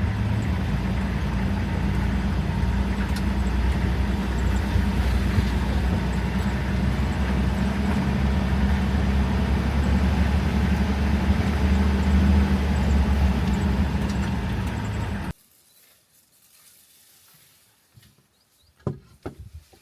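Safari vehicle driving: steady engine and road rumble that cuts off suddenly about fifteen seconds in, leaving near quiet with a couple of faint short sounds near the end.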